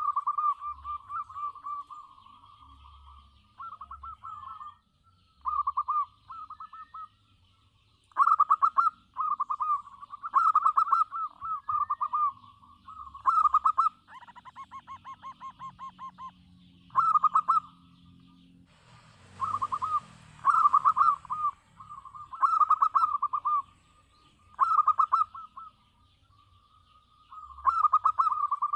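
Zebra dove (perkutut) cooing: repeated phrases of short, rapid stuttering coos, one every second or two. About two-thirds of the way in there is a brief burst of noise.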